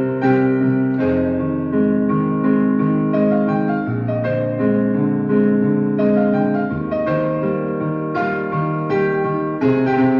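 Piano music: a steady run of chords and melody notes over a moving bass line.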